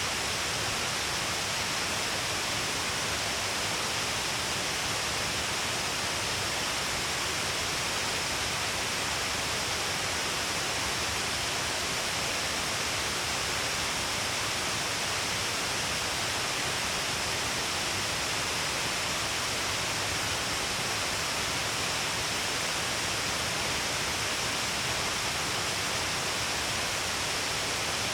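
Shiraito Falls: water pouring down a long cliff face in many cascades, making a steady, unbroken rush.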